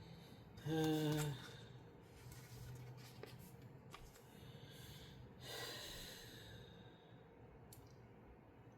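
A man's short closed-mouth 'mm' about a second in, then a breathy sigh a little past the middle, with a few faint clicks of LEGO plastic pieces being handled.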